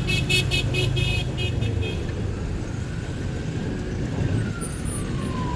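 Street traffic: engines running and vehicles passing, with a rapid high pulsing tone for the first two seconds. About four seconds in, a siren's tone starts sliding down in pitch.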